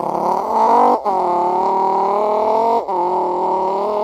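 A person imitating a car engine with the mouth, hands cupped over it to make it deeper: a steady, loud buzzing engine drone, broken briefly twice, about a second in and near three seconds. The speaker calls this attempt even worse.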